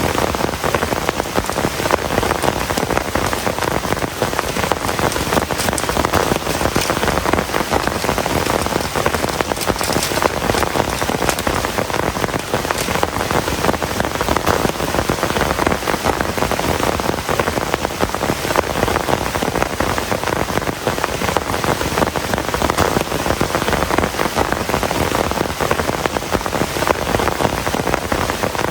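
Heavy rain falling steadily, a dense, unbroken patter of drops on surfaces.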